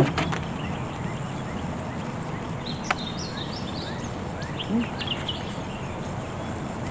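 Small birds chirping now and then over a steady hiss of outdoor background noise, with a sharp click just at the start and another about three seconds in.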